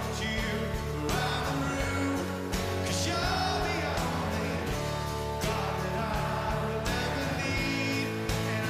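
Live rock band playing a song: a sung vocal over guitars, bass and steady drum hits.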